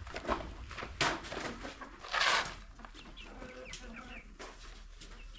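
Chickens clucking, with a few sharp knocks near the start and about a second in, and a louder noisy burst of about half a second a little over two seconds in.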